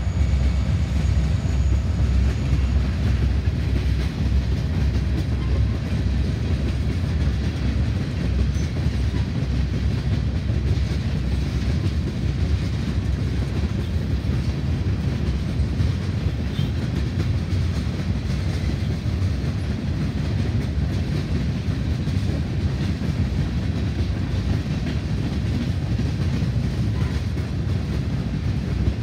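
A freight train of tank cars rolling past: a steady low rumble of steel wheels on the rails that carries on unbroken.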